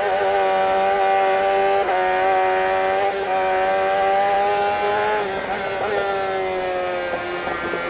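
Small engine running at a steady high speed, its pitch holding nearly constant with a few slight dips.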